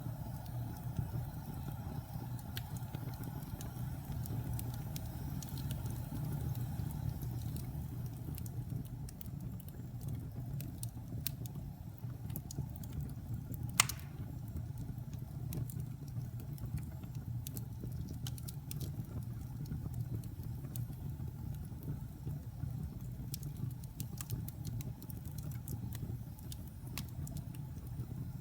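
Wood fire burning in a fireplace: a steady low rumble of the flames with scattered crackles and pops, and one sharp, loud pop about halfway through.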